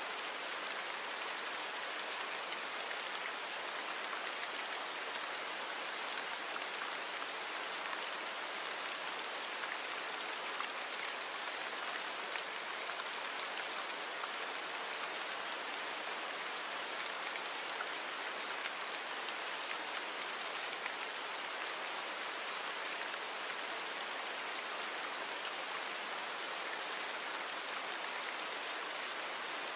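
Steady rainfall: an even hiss of rain with fine drop patter, noise-reduced so that there is little low rumble.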